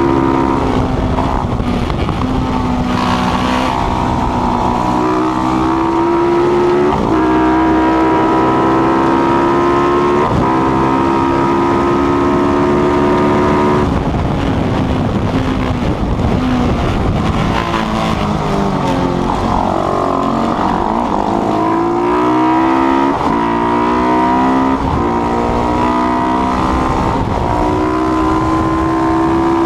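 Single-cylinder Supermono race motorcycle engine, built on a KTM 690, at full throttle. It climbs through the gears with quick upshifts, drops away in a run of downshifts through the middle, then accelerates through the gears again.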